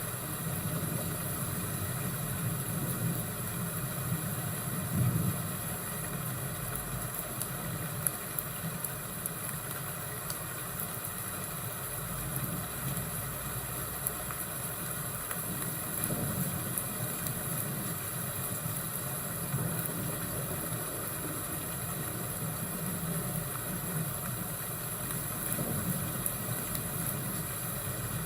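Fireplace and thunderstorm ambience: a steady low rumble and hiss that swell and fade slowly, with a few faint crackles.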